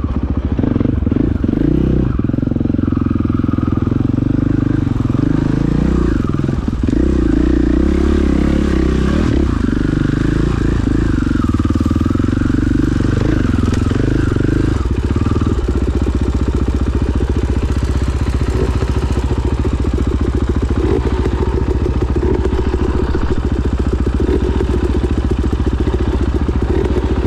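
KTM 500 EXC-F dirt bike's single-cylinder four-stroke engine running. Its pitch rises and falls with the throttle for the first half, then it settles to a steady idle about halfway through.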